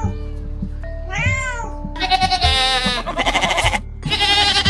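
A kitten meows once, then from about two seconds in a herd of goats bleats loudly in long, quavering calls over steady background music.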